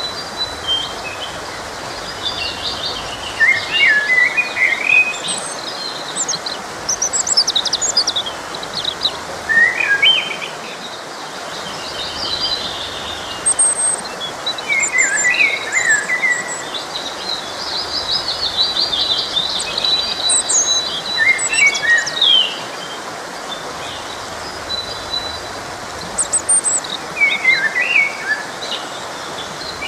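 Several birds singing in short, quick, varied chirps and trills over the steady rush of a stream.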